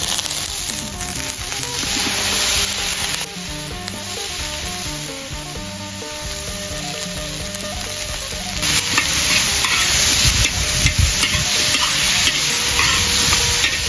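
Diced pumpkin frying in hot oil in a large metal wok, sizzling steadily while it is stirred. The sizzle and scraping grow louder about nine seconds in, as the stirring gets going.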